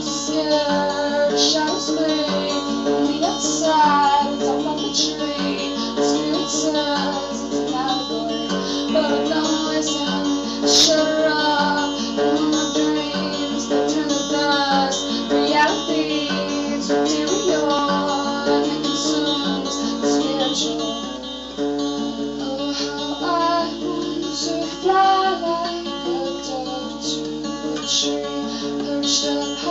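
A song: acoustic guitar strummed and picked, with a voice singing over it.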